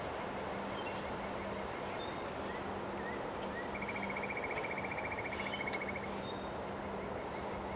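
Strong, steady wind rushing past the microphone during a windstorm. About halfway through, a rapid high trill is heard for about two seconds, along with a few faint chirps.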